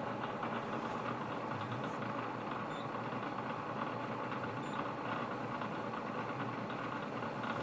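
Bridgeport vertical milling machine running steadily under power feed, machining a slot in a part.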